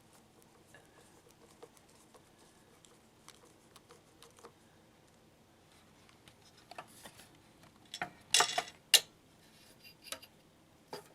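Light clicks and taps of hand work fitting the handle back onto a miter saw, with a short burst of louder clattering about eight seconds in and one more click near the end.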